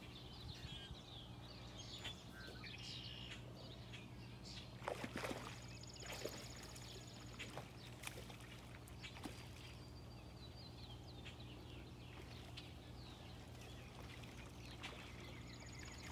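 Quiet outdoor ambience with a steady low hum, scattered bird calls including a short buzzy trill heard twice, and a few faint clicks and rustles of handling.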